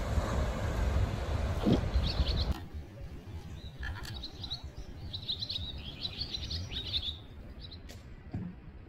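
Small birds chirping in quick clusters of short high calls. At the start a loud rush of wind and surf fills the sound, then cuts off abruptly, leaving the birdsong over a quiet background.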